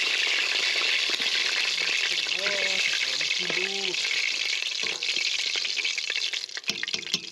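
Khuushuur, Mongolian meat pastries, sizzling in hot oil in a steel pot, the sizzle thinning toward the end. Near the end come a few sharp clicks of the metal tongs against the pot as a pastry is lifted out.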